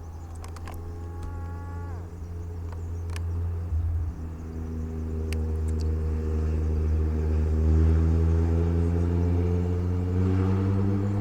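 Parrot Disco fixed-wing drone's electric motor and propeller droning, growing louder and slowly rising in pitch over the second half. A brief steady tone sounds near the start.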